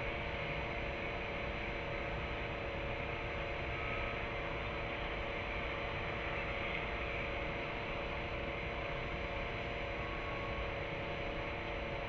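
Steady hiss and rumble of distant city traffic, with a constant faint electrical hum.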